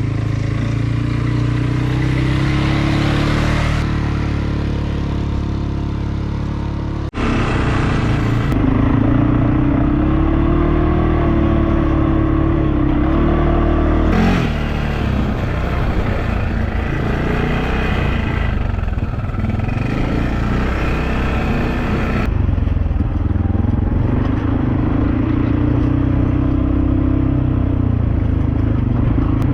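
Quad bike engine running while riding on a dirt track, its pitch rising and falling with the throttle, with several abrupt changes in the sound, the first about seven seconds in.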